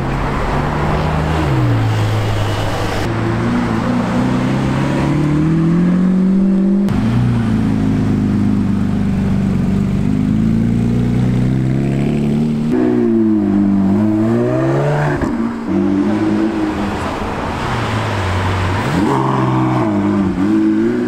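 Supercar engines accelerating away one after another in separate cut-together clips. The McLaren 720S's twin-turbo V8, the Porsche 911 GT3 RS's flat-six and the Lamborghini Aventador SVJ's V12 rev up and drop back through gear changes, over and over.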